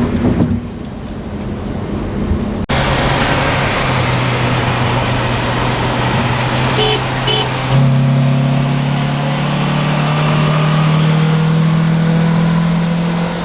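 Car engine running under load with road noise, its pitch slowly rising as the car accelerates; the engine note gets louder about eight seconds in. The sound changes abruptly near three seconds in, as at an edit.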